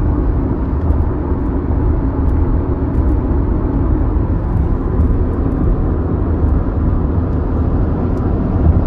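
Steady low rumble of a car on the road, heard from inside the moving car: road and engine noise.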